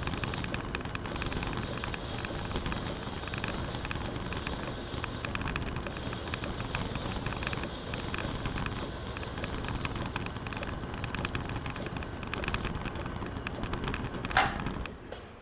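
Metal lathe running steadily through a light finishing spring pass, the cut bringing the part to final size. Near the end there is a brief sharp squeal or scrape, and then the machine noise drops away.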